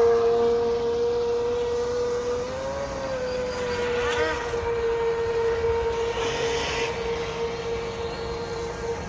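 High-pitched whine of a radio-controlled boat's brushless electric motor running at a steady speed. The pitch lifts briefly about three seconds in, and the whine slowly fades.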